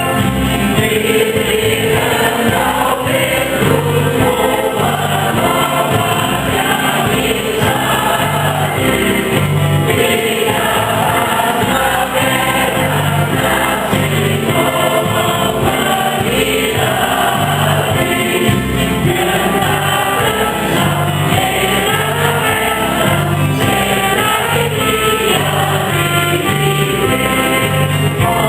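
Church singing group singing a hymn together in chorus over instrumental accompaniment with a steady rhythmic bass line.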